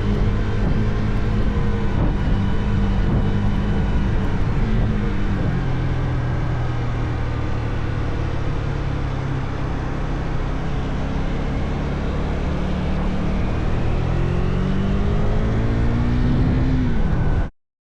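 Motorcycle engine running under way with road and wind noise. Its pitch drops about five seconds in, holds steady, then climbs from about fourteen seconds as it revs up, before the sound cuts off suddenly near the end.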